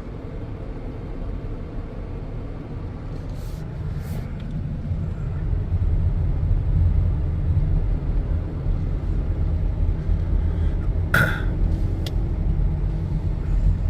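Car driving, a steady low rumble of engine and road noise that grows louder about halfway through, with a few brief clicks.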